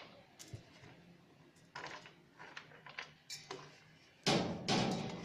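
Kitchen handling sounds: a few light clicks and knocks of utensils and containers, then a louder clattering, rustling noise lasting about a second near the end.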